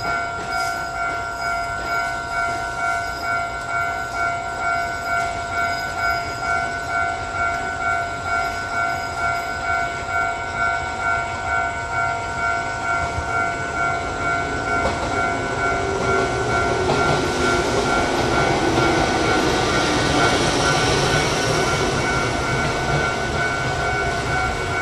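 An electronic warning bell rings over and over in an even pulse, about one and a half rings a second. From about fifteen seconds in, the noise of an electric train grows louder and drowns the bell as the train runs past along the platform.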